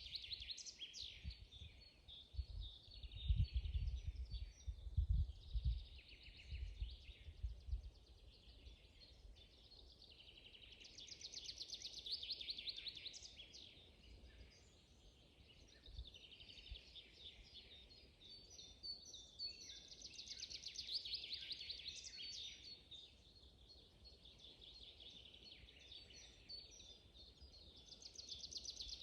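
Songbirds singing, with phrases of fast, high repeated notes two to three seconds long that come back every several seconds, and softer calls between them. A few low thuds fall in the first quarter.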